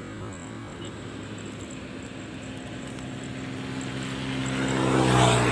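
A passing engine: a steady hum that grows louder to a peak about five seconds in, then begins to fade.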